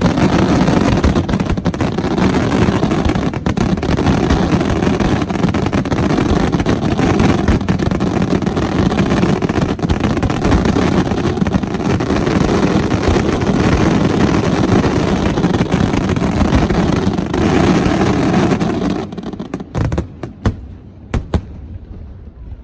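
Fireworks display at its height: a dense, continuous barrage of bursts that runs together into one rumbling wall of sound. About nineteen seconds in it thins out abruptly to a few last separate bangs.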